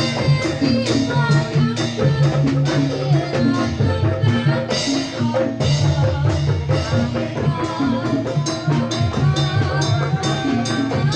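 Live jathilan accompaniment music: drums and tuned metal percussion play a dense, steady rhythm, with a wavering melody line over them.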